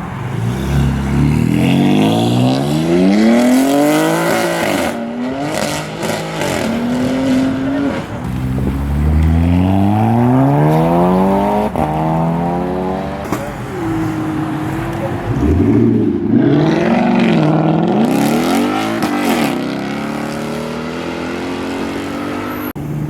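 Car engine revved hard twice, its pitch climbing steeply and then dropping back each time, followed by a run of shorter blips up and down.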